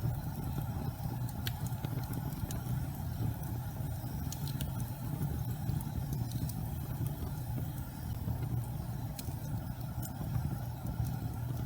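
Gas fireplace flames burning with a steady low rumble, with a few sharp crackles scattered through.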